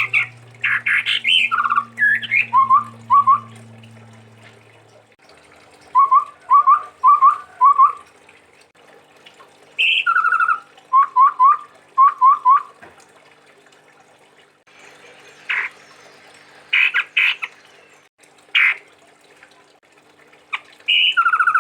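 Chestnut-rumped babbler (tepus tunggir merah) singing: loud phrases of short whistled notes, repeated in groups with pauses of a second or two between them, and single notes near the end. A low steady hum runs under the first few seconds.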